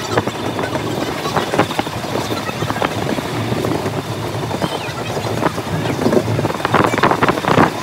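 A moving heritage railway train: a steady rumble with irregular clicks and clatter, growing busier near the end.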